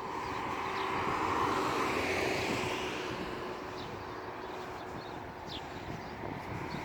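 A vehicle passing, its noise swelling about a second in and easing off after a few seconds. Short, high bird chirps sound now and then.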